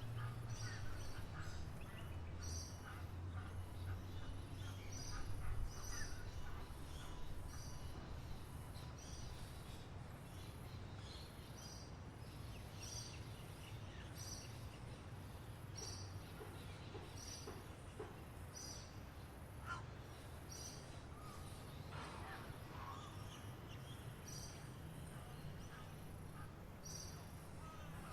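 Birds chirping: one bird repeats a high two-note chirp about once a second, with scattered lower calls from others, over a low steady rumble that is louder in the first few seconds.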